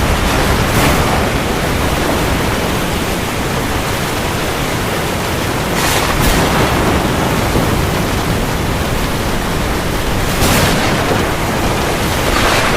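Heavy rain falling on the sea as a steady dense hiss, with a low rumble underneath and brief louder surges of hiss three times.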